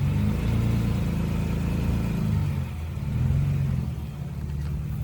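Toyota Tacoma pickup's engine revving up and down under load while crawling over a trail obstacle; the revs dip a little after halfway, then climb again.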